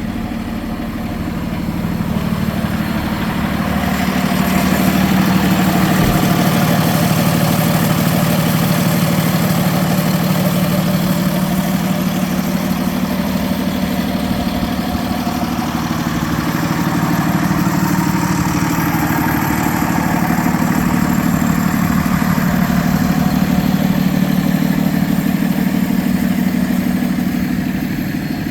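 Freightliner M2 box truck's diesel engine idling with a steady, even pulse. It grows louder and softer a couple of times over the stretch.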